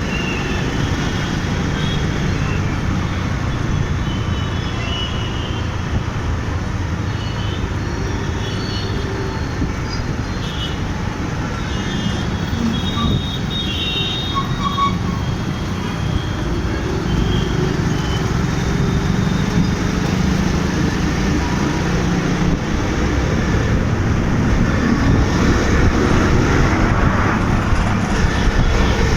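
City road traffic heard while riding through it: a steady low rumble of engines and road noise that gets somewhat louder near the end, with scattered brief horn toots.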